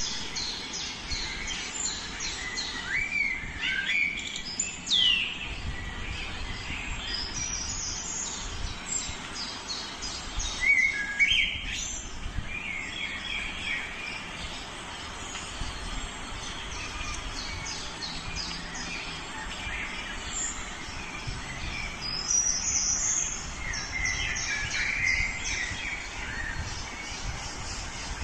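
Several small birds chirping and twittering in quick runs of high notes, with louder calls now and then, over steady background noise.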